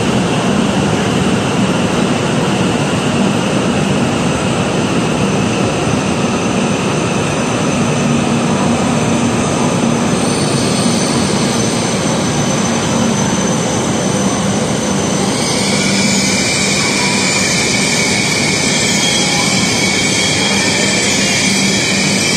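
W7 series Shinkansen train coming in along the platform and standing there: a loud, steady rushing noise under the station roof. About two-thirds of the way through, a higher hiss with a thin whistle joins in.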